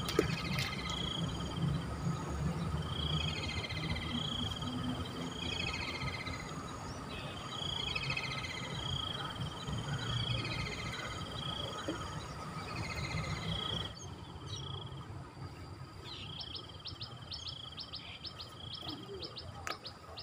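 Birds calling: a chirping phrase repeated about every second and a half alongside a steady high note, over a low steady rumble. In the last few seconds a quick run of sharp ticks joins in.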